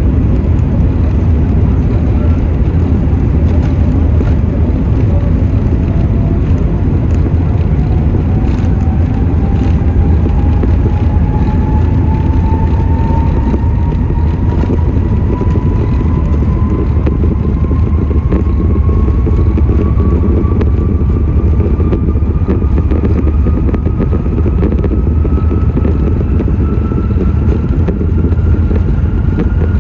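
Inside the cabin of an Airbus A380: a loud, steady engine and airframe rumble, with a thin whine climbing slowly and evenly in pitch.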